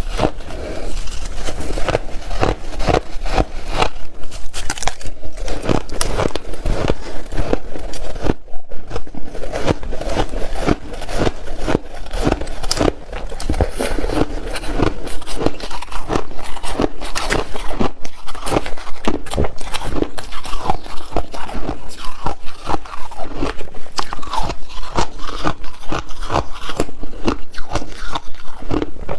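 A person biting and chewing ice close to the microphone: a dense run of crisp crunches, several a second, with a brief pause about eight seconds in.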